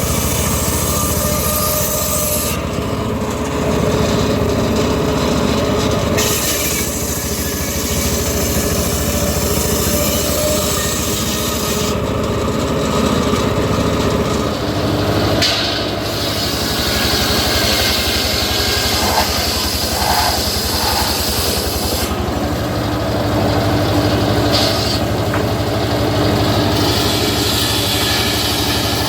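Homemade circular sawmill running: its engine drones steadily while the blade saws through teak logs. The high-pitched cutting noise comes and goes every few seconds.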